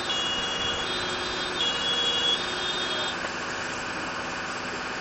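Fire engine's engine running steadily under a wide hiss, with faint high steady tones switching on and off during the first three seconds.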